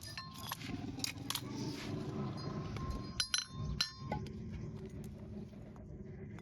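Several sharp metallic clinks and taps, a few with a short ring, from a farrier's metal tools working on a horse's hoof. They come in small groups over a low background noise.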